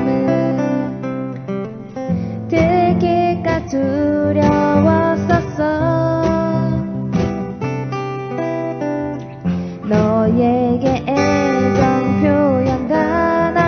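A song performed live: a singer over guitar accompaniment, with strummed chords carrying a sung melody.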